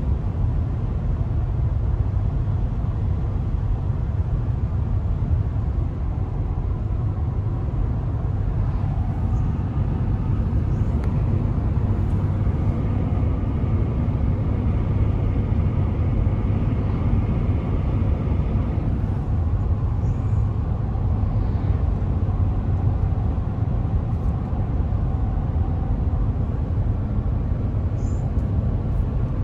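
Steady road noise inside a car cabin at highway speed: a low rumble of tyres and engine that holds level throughout.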